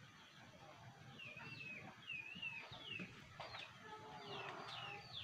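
Faint small-bird calls: short wavy chirps repeated several times, coming closer together toward the end.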